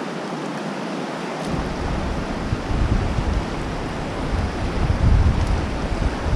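Fast river water rushing steadily through rapids, with wind buffeting the microphone in low rumbling gusts that set in about a second and a half in.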